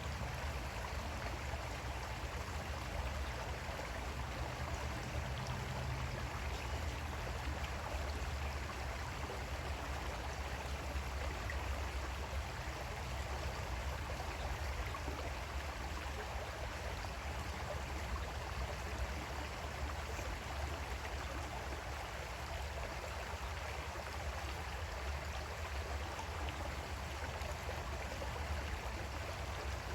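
Creek water flowing steadily, an even rushing burble with a low rumble under it.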